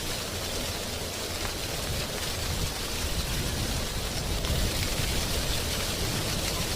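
Wind blowing through drying tree leaves: a steady rustling hiss with a low, gusty rumble underneath.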